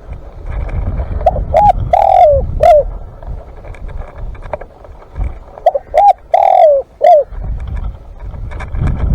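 Spotted dove cooing: two phrases a few seconds apart, each of short coos around a longer note that falls in pitch. A low rumble runs underneath at times.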